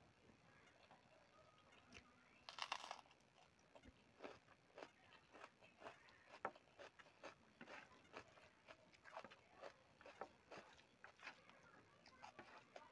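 Faint, close-up mouth sounds of a person eating rice and curry by hand: irregular small chewing and smacking clicks, with a louder crunch about two and a half seconds in.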